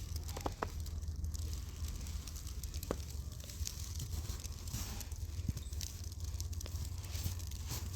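Storm wind rumbling steadily on the microphone, with scattered light ticks and crackles throughout.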